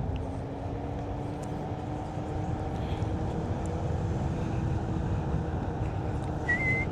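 Onewheel electric hub motor whining steadily, its pitch rising slightly, over the rumble of the tyre rolling on the trail and wind on the microphone. Near the end a high whistled note begins.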